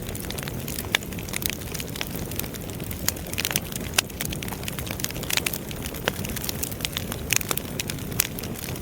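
Fire in a fireplace crackling: irregular sharp snaps and pops, several a second, over a steady low rumble.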